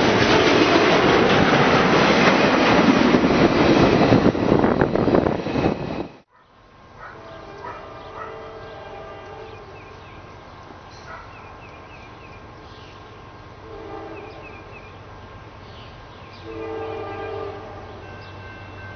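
Freight train passing close by, the loud rumble and rattle of its cars on the rails, which cuts off abruptly about six seconds in. After that it is much quieter, with a train horn sounding faintly twice, briefly, near the end.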